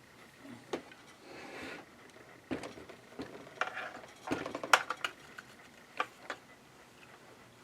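Sharp metallic clicks, taps and a short scrape from hand tools and small metal parts being worked inside the opened housing of a Janome ME4014 sewing machine, as a screw deep inside is reached. A scrape comes about a second in, then an irregular run of clicks and rattles, the loudest about three-quarters of the way through.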